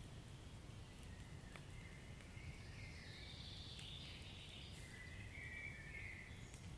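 Wood fire burning in a fireplace: a faint low rumble with a few scattered crackles and short stretches of hissing.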